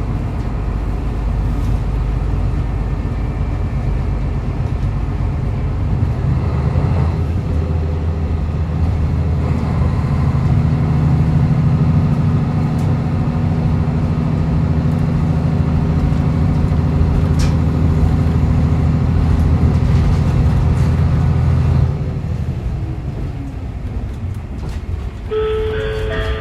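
Diesel railcar heard from inside the car, its engine pulling under power with a steady drone over the rail noise. About 22 s in the engine note drops back as power is shut off and the train coasts. Near the end a short electronic tone sounds.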